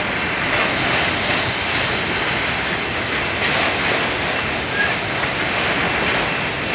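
Enclosed autorack freight cars rolling past at close range: a loud, steady rumble and clatter of steel wheels on the rails, with a brief faint high squeak about five seconds in.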